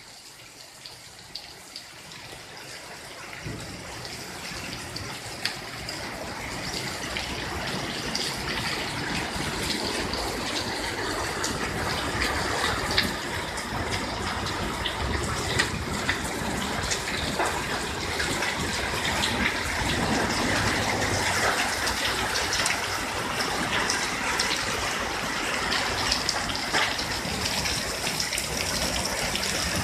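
Heavy thunderstorm rain pouring down, swelling over the first several seconds and then steady and loud, with many sharp taps of drops striking hard surfaces.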